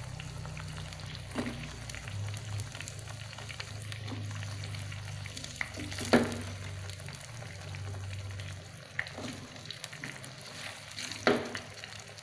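Blended spice paste frying in oil in a pan, a steady low sizzle, with a wooden spatula knocking and scraping against the pan a few times as sliced onion and leek are stirred in.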